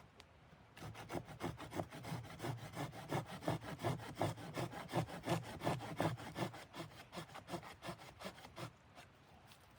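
Rapid, rhythmic rasping strokes of a saw cutting wood, about four to five a second. They start about a second in and fade out near the end.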